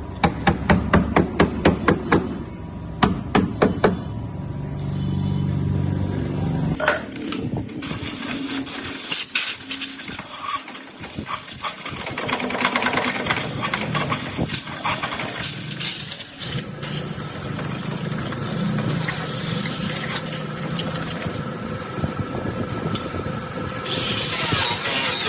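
A hammer striking the sheet metal of a rusted car body, a quick run of blows for the first few seconds. After that comes denser continuous workshop noise with scattered knocks.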